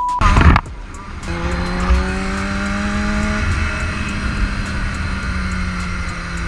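A short beep, then a brief loud burst, then a motorcycle engine running steadily at speed, its pitch rising slightly and then easing off.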